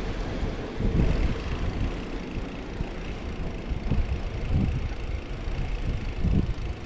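Wind buffeting the microphone of a camera on a moving bicycle: a low, gusty rumble that swells several times.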